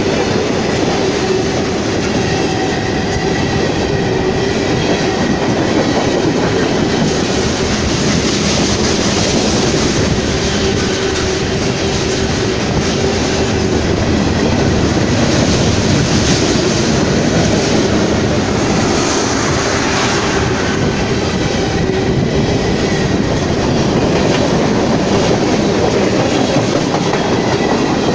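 Railroad cars of a passing train rolling steadily past at close range, wheels clattering over the rail joints.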